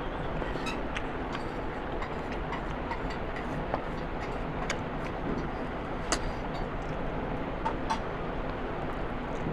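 Mouth and hand sounds of a person eating a biryani meal: small irregular clicks and smacks over a steady background hiss.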